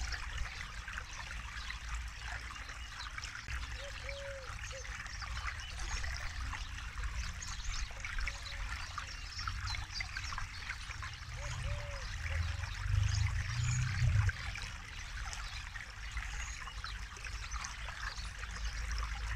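Forest river flowing and trickling: a steady rushing water noise over a low rumble that swells briefly about twelve seconds in.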